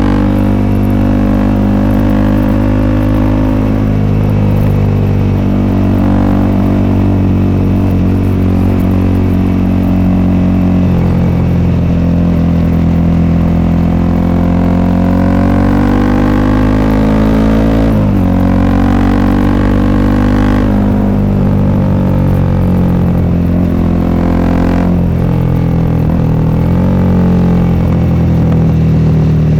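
Exhaust of a Honda CRF300L's single-cylinder engine through an FMF Q4 pipe while riding. The pitch slowly climbs and falls with engine speed, with brief breaks and fresh climbs about four, eighteen, twenty-one and twenty-five seconds in, as at gear changes.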